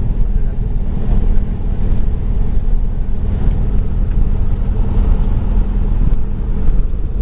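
Aircraft engines running in a loud, steady drone, with a deep rumble and a few steady tones above it.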